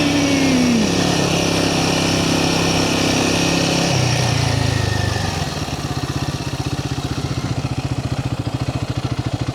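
Royal Enfield Himalayan 450's single-cylinder engine running off the throttle, then settling to an even, rapid idle putter about five seconds in.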